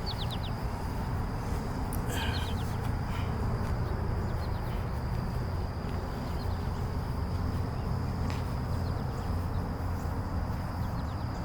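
Outdoor ambience: a steady high insect drone over a low rumble of wind or distant traffic. A bird gives short runs of quick falling chirps at the start and again about two seconds in.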